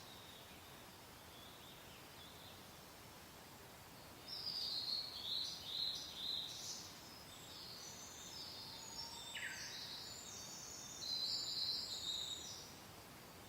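Songbirds chirping in quick high phrases over a steady soft wind hiss, the birds starting about four seconds in and falling quiet near the end.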